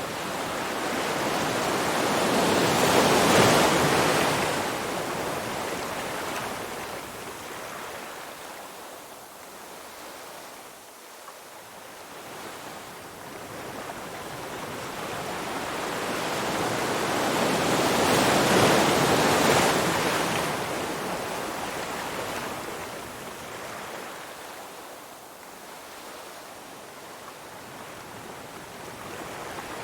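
Ocean surf: waves breaking and washing in as a rushing noise that swells twice, peaking about three seconds in and again past the halfway mark, then drawing back and quietening in between.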